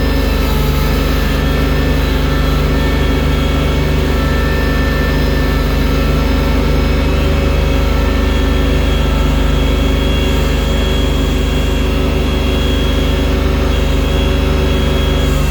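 Tractor engine running at a steady speed throughout, with an even, unchanging engine hum.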